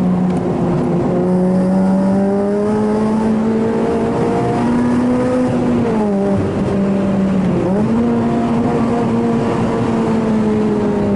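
Honda Civic FD's four-cylinder engine running hard, heard from inside the cabin. Its pitch holds high and fairly steady, sags about six seconds in, dips sharply just before eight seconds, then climbs back up.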